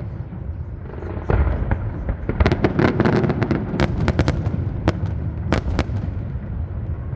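Aerial fireworks display going off: deep booms throughout, with a dense volley of sharp cracks from about two to six seconds in.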